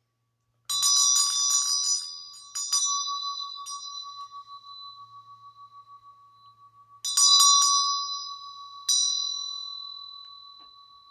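A ritual metal bell rung in two bouts, each a quick run of clapper strikes followed by one more strike. Its clear tone rings on after each bout and slowly dies away with a gentle wavering.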